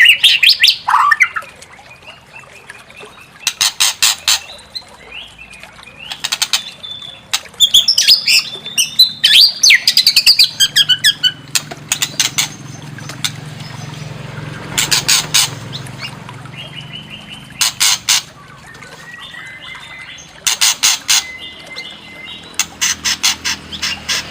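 White-rumped shama calling: harsh, fast rattles repeated about seven times, between whistled, gliding song phrases.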